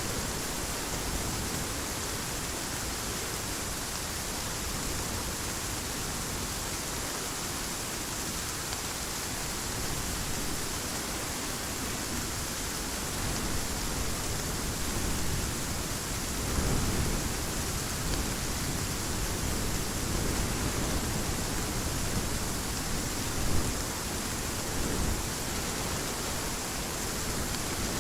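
Heavy rain falling steadily in an even hiss, with low rumbles of thunder swelling and fading through the second half and one short louder peak a few seconds before the end.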